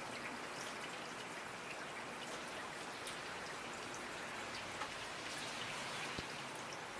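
Steady rainfall: a dense, even hiss of rain with scattered individual drops ticking sharply on a surface.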